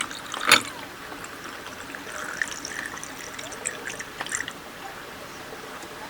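Liquid trickling, with one sharp knock about half a second in and a few light clicks afterwards.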